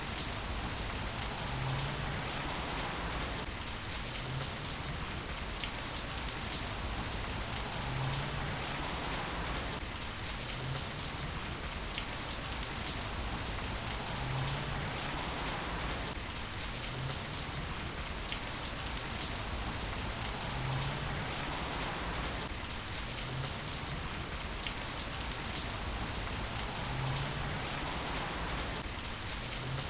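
Heavy rain falling steadily, a dense even patter with scattered louder drops ticking through it. A short low hum comes and goes about every six seconds.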